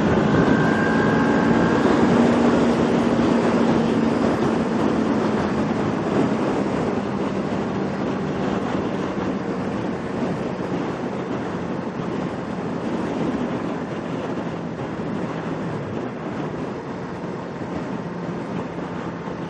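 Kawasaki Ninja 650R's parallel-twin engine running under way, mixed with wind and road noise. The sound is loudest in the first few seconds, then slowly grows quieter.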